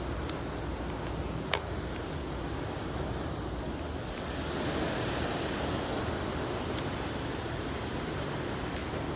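Steady rushing of wind and water, with a sharp click about a second and a half in.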